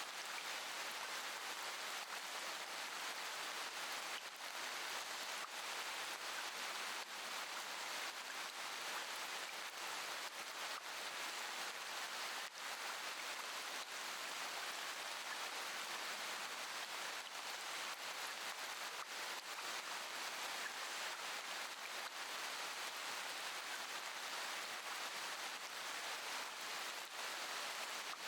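Steady rain: an even, unbroken hiss of falling rain, with a fine patter of drops and no thunder.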